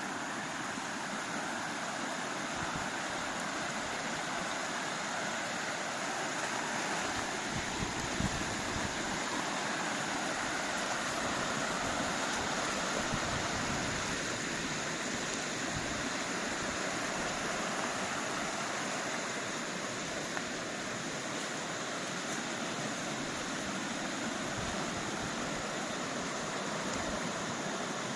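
Rushing water of a mountain stream: a steady, even hiss and rush.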